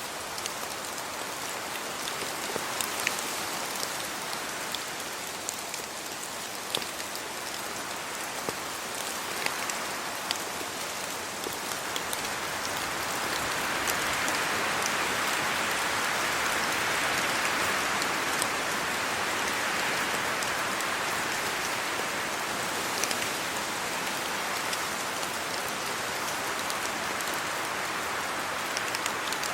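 Steady rain falling on leaves and the ground, with many distinct drops ticking through it. About halfway through, a broad rushing swell builds and then slowly fades.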